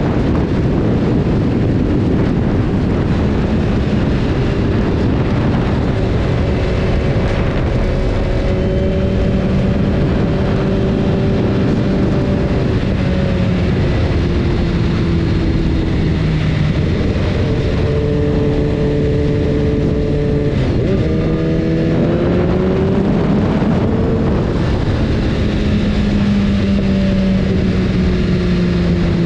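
BMW S1000RR's inline-four engine running under way, heard on board over heavy wind rush. Its revs hold, step and slide up and down, with a sharp rise about three-quarters of the way through.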